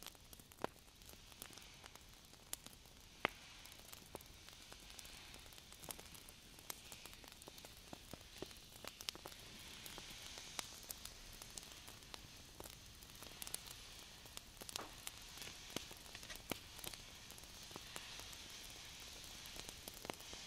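Hands brushing and rubbing close to the microphone: a faint, soft skin-on-skin hiss dotted with many small clicks, with one sharper click about three seconds in.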